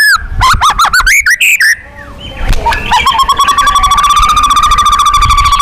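White-rumped shama (murai batu) singing: a few arched whistled notes and a quick run of varied notes, then, about halfway in, a long, very fast rolling trill held at one steady pitch.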